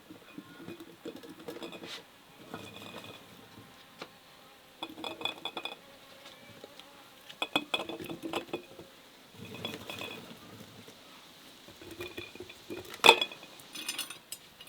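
Kitchenware being handled: irregular clinking and clattering of dishes and utensils in several short bouts, with one sharper, louder knock near the end.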